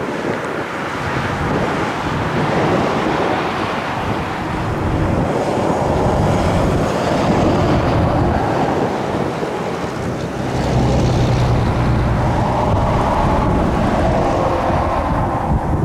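Strong wind buffeting the microphone: a continuous rushing, rumbling noise that swells louder about ten seconds in.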